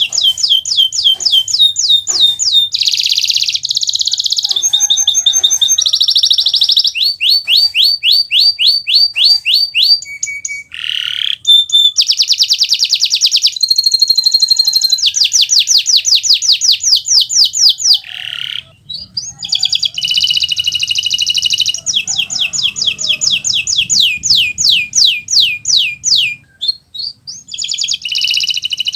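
Kenari Nusantara canary in full song: fast trills of repeated high sweeping notes, switching to a new trill every second or two, with a couple of brief breaks.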